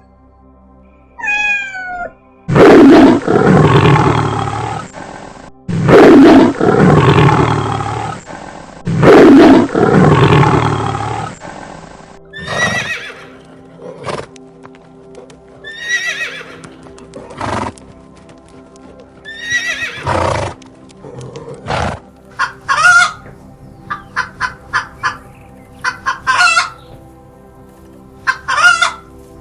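A series of animal calls over steady background music: three long, loud calls of about three seconds each in the first half, then many shorter, higher calls with falling pitch, coming in quick runs near the end.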